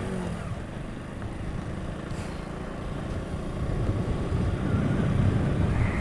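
Motorcycle under way: a low engine and road rumble that grows louder toward the end.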